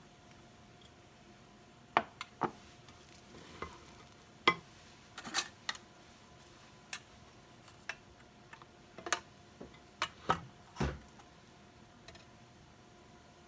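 Kitchen utensils and dishes clicking and knocking, about a dozen separate sharp taps over some nine seconds, over a faint steady hum.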